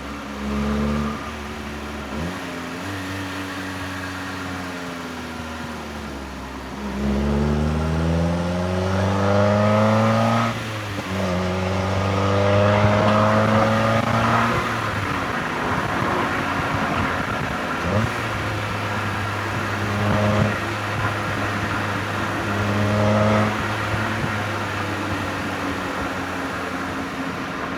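NB Mazda MX-5 Miata's inline-four engine and exhaust on a spirited drive. The revs fall off, then climb hard through a gear, drop sharply at an upshift about ten seconds in and climb again through the next gear. The engine then settles to a steadier pull, with two short throttle blips near the end.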